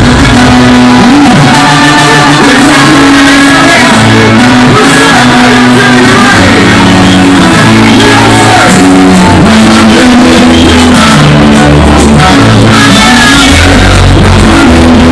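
Loud live music with singing and shouting voices over a steady, sustained bass line.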